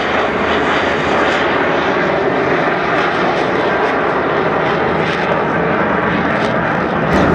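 Jet noise from Avro Vulcan XH558's four Rolls-Royce Olympus turbojets as the bomber flies with its undercarriage retracting, a loud steady rushing that grows a little louder near the end.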